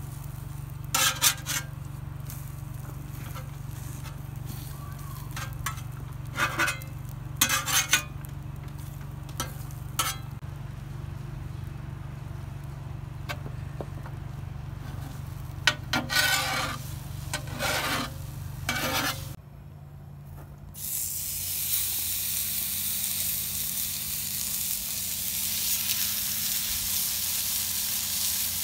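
Metal spatula scraping and chopping eggs on a Blackstone griddle's steel cooking surface, in short sharp strokes over a steady low hum. About two-thirds of the way through, after a brief dip, pork chops sizzle steadily on the hot griddle.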